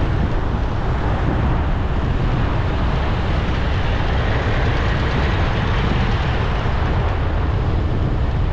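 Steady city traffic noise under a heavy low rumble, with no breaks or distinct events.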